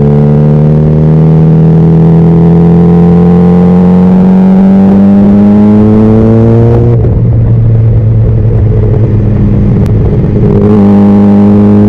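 Honda CBR600RR's inline-four engine under way, its note climbing steadily for about seven seconds as the bike accelerates. The throttle then closes and the tone breaks up into a rougher, slightly quieter sound for a few seconds, before a steady engine note picks up again near the end.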